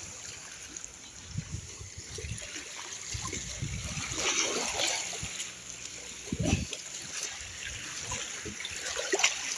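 Small waves splashing and trickling at the water's edge, with gusts of wind buffeting the microphone now and then.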